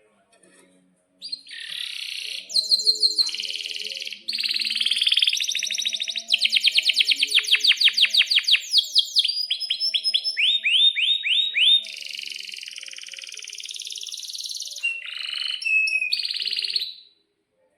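Male domestic canary singing one long song that starts about a second in and lasts some sixteen seconds. It is made of runs of fast repeated notes and rolling trills, with a string of quick falling sweeps in the middle.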